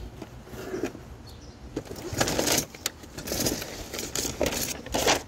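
Irregular clatters and scraping knocks of curbside patio furniture being handled and moved.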